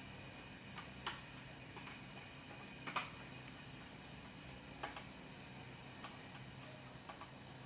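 Faint, scattered light clicks and taps, about seven at irregular intervals and the sharpest about three seconds in, over a steady faint hum and hiss.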